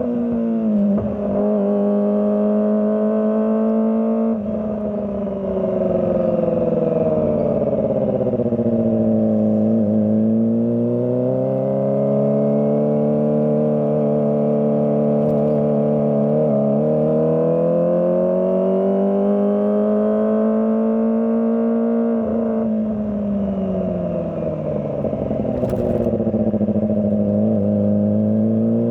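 Kawasaki ZX25R's 250 cc inline-four engine riding in traffic. The revs climb and sink slowly over several seconds at a time, with abrupt pitch drops at gear changes about four seconds in and again about twenty-two seconds in.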